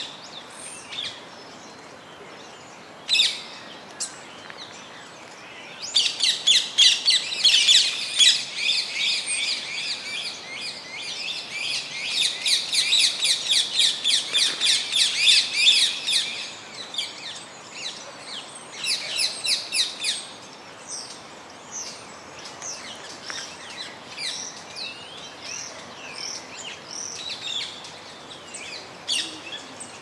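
Many small birds chirping and twittering. A dense stretch of rapid, high chirps runs from about six seconds in to about sixteen seconds, with scattered calls before and after.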